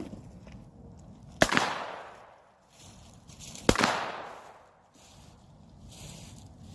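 Two shots from a small .22 pistol, about two seconds apart, each ringing off with an echo that fades over about a second.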